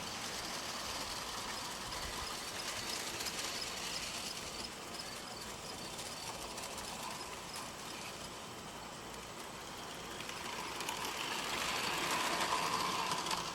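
G scale model train running on the garden railway track, a steady hum of its motor and rolling wheels that grows louder over the last few seconds as it comes closer.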